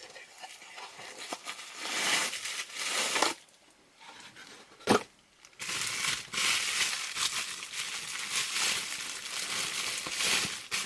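Crinkling and rustling of packing material as a small cardboard box is opened and its contents unwrapped, in two long spells with a single sharp knock about five seconds in.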